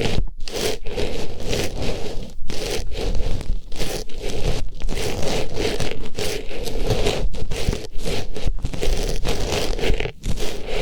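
Artificial flower pushed into and rubbed around an ear, close to the microphone, for ASMR ear-cleaning: continuous close rustling and scraping, broken by several brief pauses.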